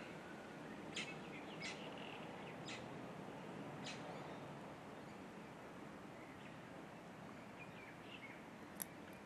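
Quiet outdoor background with a few short, high bird chirps during the first four seconds, and a single sharp tick near the end.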